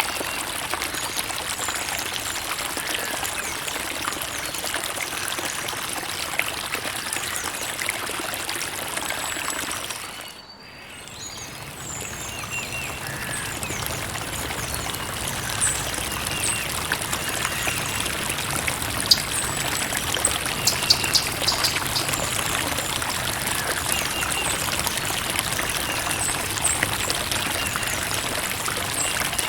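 Creek water trickling and splashing over stones in a steady rush. About a third of the way in it briefly drops away, then comes back with a fuller, deeper flow.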